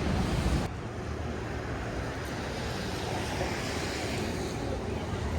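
Steady hiss of a wet city street at night, rain and traffic noise with no clear single event; the noise steps down abruptly under a second in.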